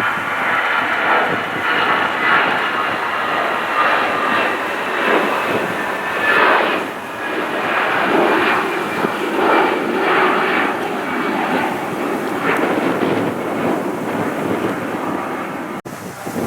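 Jet airliner engines running as the aircraft passes, a loud steady rush with a high whine laid over it. The sound cuts off abruptly just before the end.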